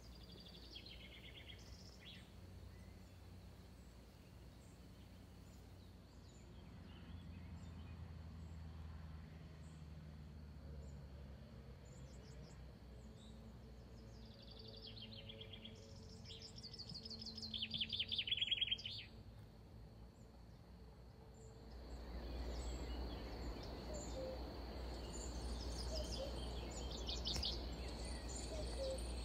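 Garden ambience with songbirds singing in short trilled phrases, the loudest a rapid trill a little past the middle. The low background noise grows louder about two-thirds of the way in.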